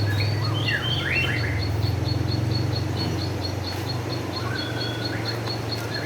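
Songbirds chirping: quick sweeping notes about a second in and a level call near the end, over a rapid high ticking of about four notes a second and a steady low hum.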